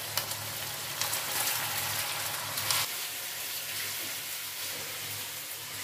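Chicken pieces frying in hot oil in a wok over high heat: a steady sizzling hiss, crackling a little more strongly at moments.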